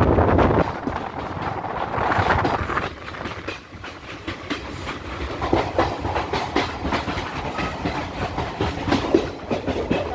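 Passenger train running, heard from an open coach doorway: wheels rumbling and clattering over the rail joints. A loud rushing noise drops away under a second in, and the clicks of the wheels grow thicker and sharper in the second half.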